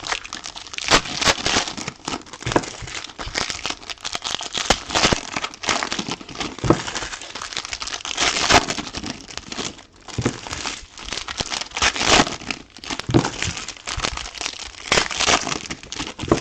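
Trading card pack wrappers crinkling and tearing as packs are opened by hand, a continuous irregular crackle with many sharp rustles.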